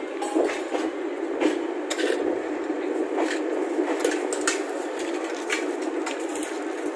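Passenger train running: a steady rumble with many irregular sharp clicks and knocks.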